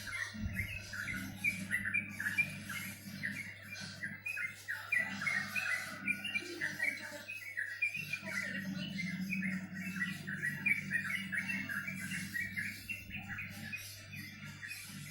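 Small songbirds chirping in a rapid, continuous stream of short high notes, with a low steady hum underneath.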